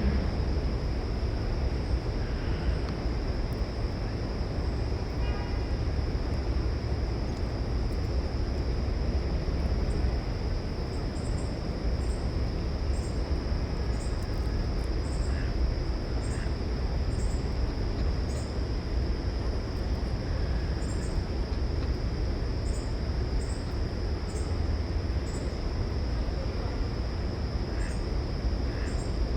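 Steady low outdoor rumble with a steady high hiss, and from about a third of the way in, short high bird chip notes repeating about once a second.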